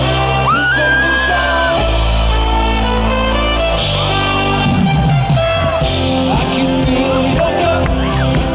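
Indie-pop band playing live, with singing over bass, synth and drums.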